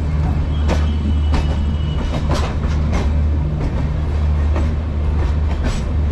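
Express passenger train running, heard from inside the coach: a steady low rumble with sharp clacks and rattles of the wheels on the track coming at uneven intervals.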